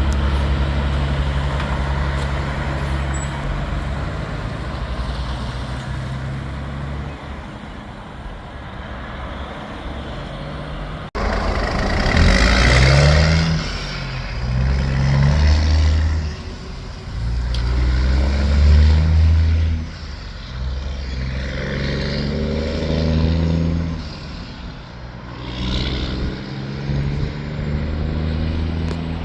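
Diesel semi-truck engines: one running steadily, then, after a cut, a big rig pulling away through several gears, the engine note climbing and dropping with each shift.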